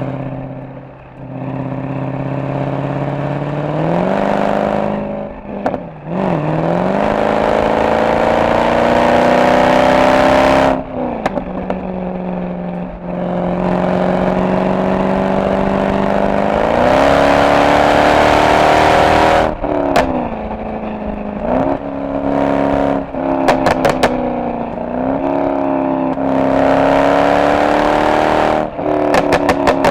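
Mercedes-AMG SL63's V8 exhaust under repeated hard acceleration, the pitch climbing and then dropping sharply at each gear change or lift-off, several times over. Bursts of sharp exhaust pops and crackles come on the overrun, mostly in the second half.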